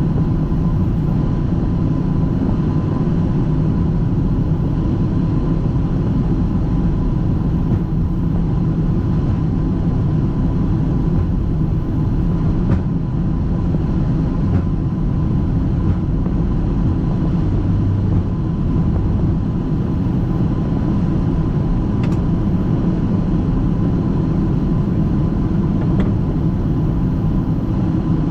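Steady engine and airflow noise on the flight deck of a Boeing 757-200 freighter climbing out after takeoff: a heavy low rumble with a faint steady high tone over it.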